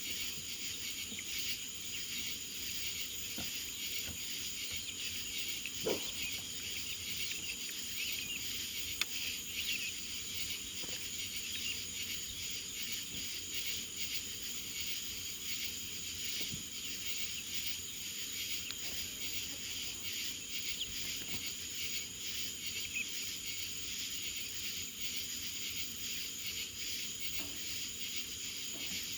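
A steady insect chorus at night, crickets chirping in an unbroken high-pitched drone, with a couple of faint knocks.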